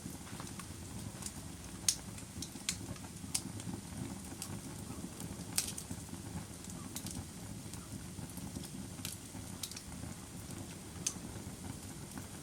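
Bonfire burning with a steady low rumble, and sharp pops and snaps at irregular intervals, about one a second.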